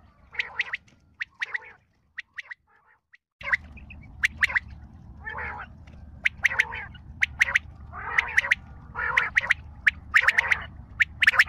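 Bird calling over and over, each call a quick cluster of sharp, harsh notes, about one a second. A short silent gap comes about two seconds in, and after it a low hum runs underneath the calls.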